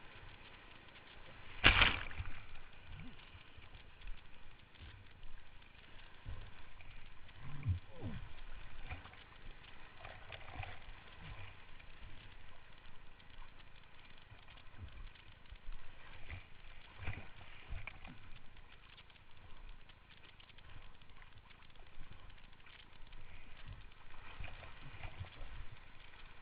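Rushing river water with irregular knocks and bumps, the loudest about two seconds in.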